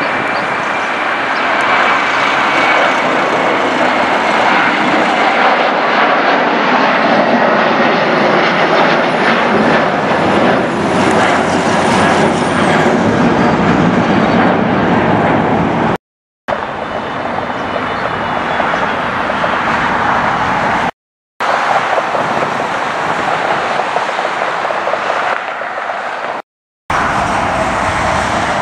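Jet airliner engines, a loud rushing roar with a faint high whine. It breaks off for a moment of sudden silence three times, the cuts between clips.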